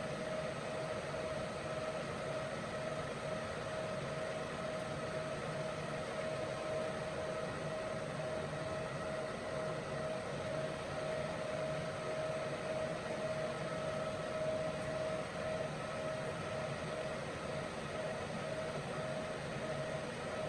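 EG4 12000XP solar inverter's cooling fans running ramped up under a 10,000-watt load: a steady rush of air with a steady whine.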